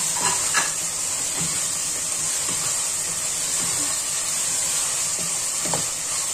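Chopped onions and tomatoes sizzling steadily as they fry in oil in an aluminium pressure cooker, with a wooden spatula scraping and stirring them against the pot.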